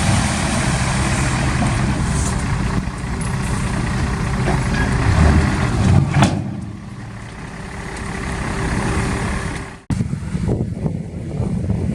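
Heavy machine's diesel engine running steadily, dropping away about six seconds in; after a sudden break near the end, wind noise on the microphone.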